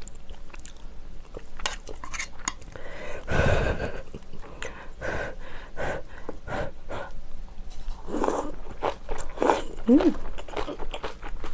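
Close-miked chewing of stewed kimchi and rice, with many wet mouth clicks. A loud breath comes about three seconds in, and a short hum near the end.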